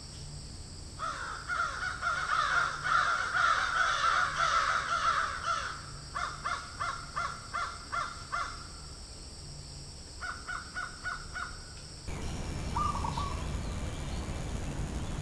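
Birds calling: many calls overlapping at first, then a run of separate calls about three a second and a quicker short run. About twelve seconds in, the background changes abruptly to a noisier one, with two short calls after it.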